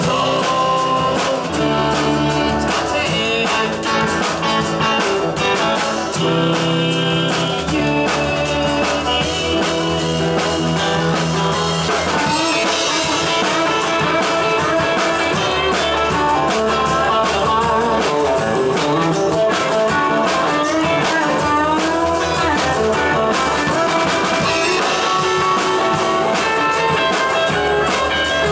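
Rock band playing a blues-rock passage: electric guitar over bass and drums, with a lead line of bending, wavering notes coming in about twelve seconds in.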